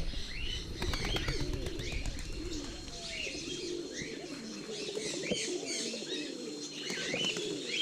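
A flock of pigeons cooing continuously, mixed with higher chirps from other birds, and a few soft taps in the first second.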